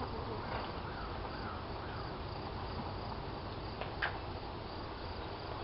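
Crickets chirping steadily in a night-time film soundtrack, with a single short click about four seconds in.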